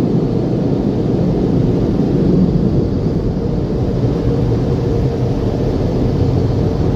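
Automatic car wash machinery running, heard from inside the car's cabin as a steady, muffled rumbling noise.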